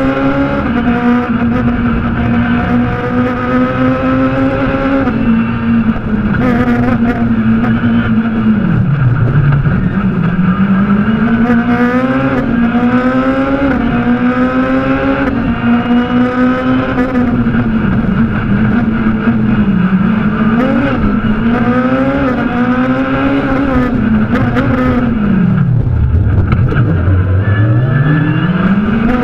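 Fiat Grande Punto S2000 rally car's two-litre naturally aspirated four-cylinder engine, heard from inside the cabin at full stage pace: the revs climb again and again through quick upshifts, and drop low twice, about nine seconds in and near the end, as the car brakes and downshifts for tight corners.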